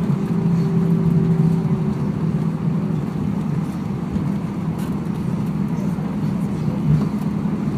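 Airbus A319 cabin noise heard from inside the cabin: the jet engines and airflow make a steady low hum, and a higher tone within it fades out about three seconds in.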